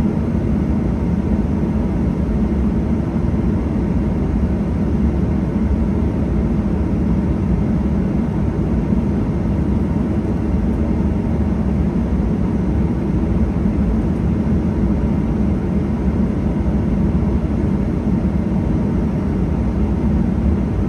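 Steady low rumble inside the passenger cabin of a Boeing 737-800 on the ground just before takeoff, its CFM56-7B engines running at a constant setting. There is no rise in pitch or level.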